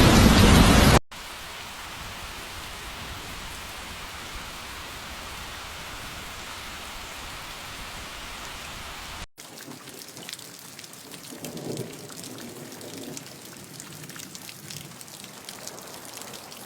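Steady hiss of falling rain. It cuts abruptly about a second in and again about nine seconds in, becoming quieter, with faint patters and ticks.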